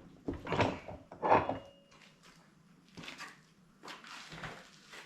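Tools being handled on a workbench: a few short knocks and clatters, spaced irregularly.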